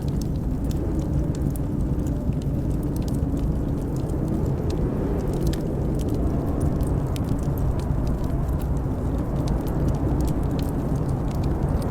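Blizzard wind blowing with a steady low rumble and a faint wavering howl, with the scattered small crackles and pops of a wood fire in a fireplace over it.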